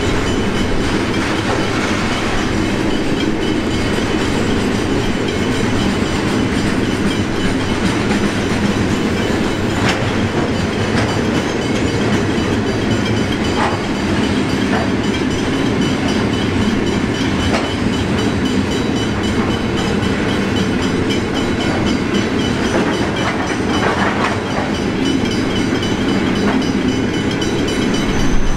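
A train running past on the track: a steady, loud rumble of steel wheels on rail, with occasional sharp clicks as the wheels cross rail joints.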